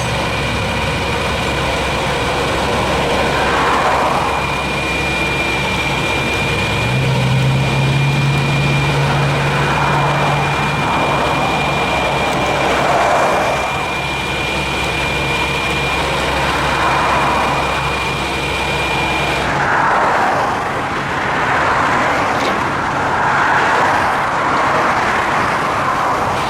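Highway traffic passing, one vehicle after another swelling up and fading every few seconds, over a truck engine's low steady running. About twenty seconds in, the low rumble and a thin steady whine stop suddenly, and the passing traffic goes on.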